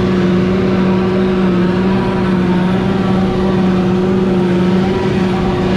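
Heavy farm machinery running steadily during hay chopping: a constant engine drone with a strong low hum and overtones above it, unchanging throughout.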